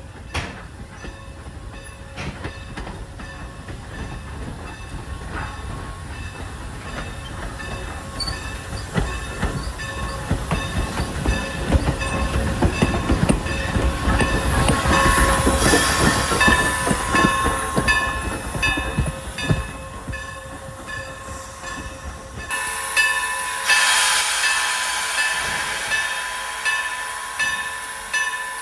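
Steam-hauled passenger train, led by 4-8-0 locomotive 475, rolling past with a rhythmic clickety-clack of wheels over rail joints. It grows louder toward the middle, changes abruptly about 22 seconds in, and then goes on in even beats.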